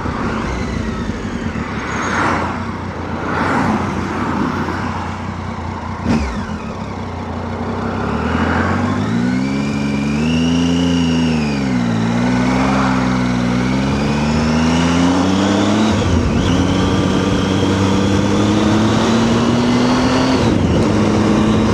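Triumph Tiger 800 motorcycle's three-cylinder engine accelerating under the rider, over wind and road noise. Revs climb about nine seconds in, drop back around twelve and again at a gear change near sixteen seconds, then rise slowly and steadily.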